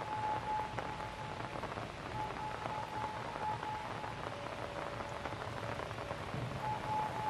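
Light rain falling and dripping onto surfaces, a steady patter, with a thin steady tone that drops out and returns several times.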